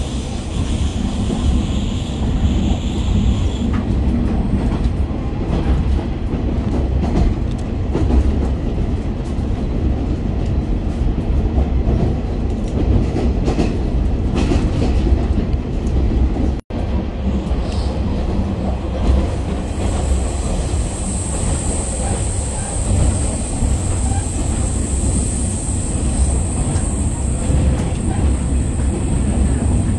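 Diesel railcar of the Futatsuboshi 4047 (KiHa 47/KiHa 40 series) running along the line: a steady rumble with wheel clicks over the rail joints. The sound drops out for an instant just past halfway. A thin high whine holds from about twenty seconds in until near the end.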